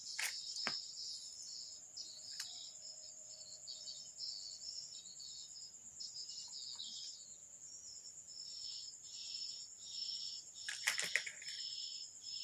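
Insects chirping: a steady high trill with a chirp that pulses about one and a half times a second in the second half. A few sharp clicks on top, the loudest near the end.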